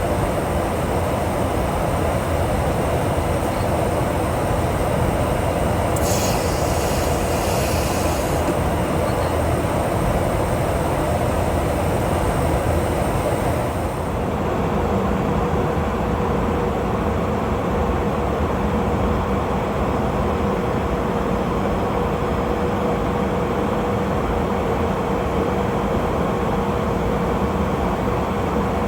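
Steady rumble of the KC-135 Stratotanker's jet engines and rushing air, with a brief hiss about six seconds in and a steady hum joining about halfway through.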